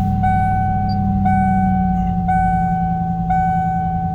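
Ford 5.8-litre 351 V8 of a 1995 Bronco running at fast idle moments after a cold start, its pitch easing down slightly about two seconds in. Over it a dashboard warning chime rings about once a second.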